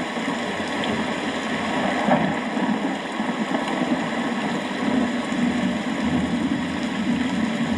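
Steady rain: a dense, even hiss, fullest in the low range, without a clear thunderclap.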